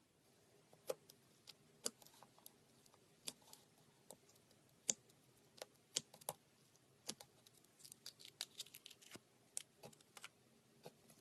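Slime being handled and kneaded, giving small irregular sticky clicks and pops, with a quick run of crackles near the end.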